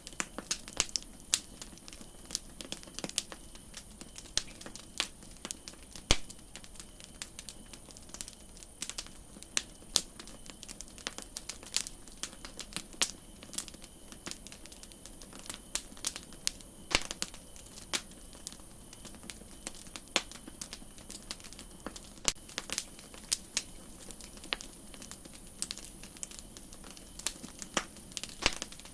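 Wood campfire crackling, with irregular snaps and pops over a steady soft hiss and one louder pop about six seconds in.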